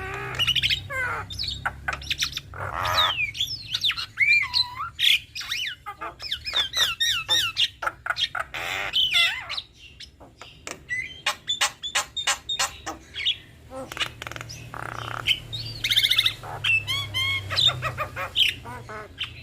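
Javan mynas singing a long, varied run of calls: whistles that glide up and down, mixed with harsh squawks and quick clicking notes, with short pauses. A low hum runs under the calls at the start and again near the end.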